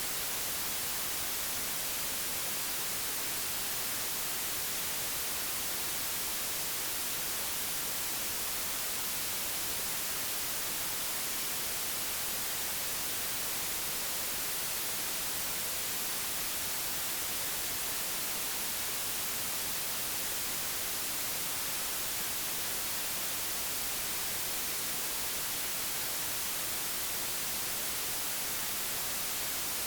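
Steady, unchanging white noise, a digitally generated even hiss, brightest in the treble.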